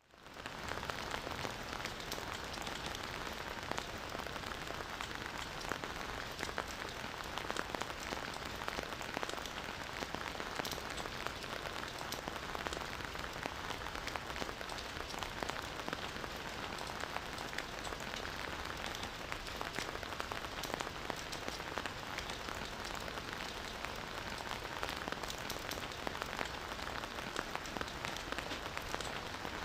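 Steady rain falling on a forest, a dense even patter with many fine drop ticks that fades in over the first half second.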